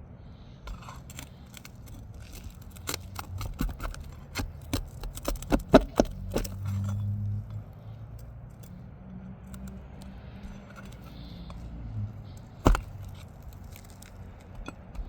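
Pry bar with a hooked end working roofing nails out of asphalt shingles: a run of sharp metal clicks and scrapes, densest in the first half, then one louder click near the end.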